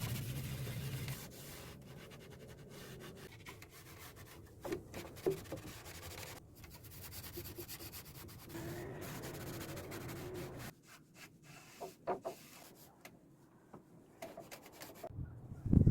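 Wood being sanded by hand: irregular rubbing and scraping with scattered small clicks. The scraping stops about eleven seconds in, leaving a few light knocks and then one louder knock at the very end.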